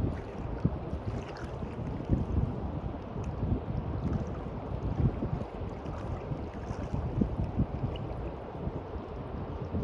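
Small sea waves washing on a beach, with wind buffeting the microphone in irregular low gusts.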